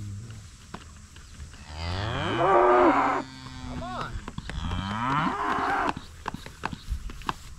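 Cows mooing: two long moos, the first about two seconds in and the louder, the second starting about four seconds in with a rising pitch. A few short knocks follow near the end.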